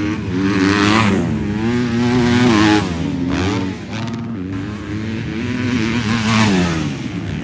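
Motocross bike engines racing on track, revving hard and easing off, their pitch climbing and dropping again and again.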